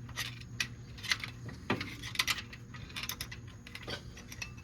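Scattered light metallic clicks and taps as the front wheel bearing is worked out of the hub of a GMC Suburban front rotor, over a faint low hum.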